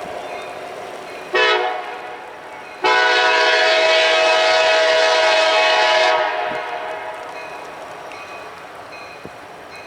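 Freight locomotive air horn: a short blast about a second in, then a long blast of about three seconds. This is the closing short-and-long of a grade-crossing horn signal.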